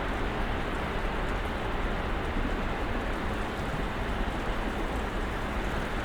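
Snowstorm ambience: a steady hiss of wind and driven snow, with a low rumble underneath and no distinct events.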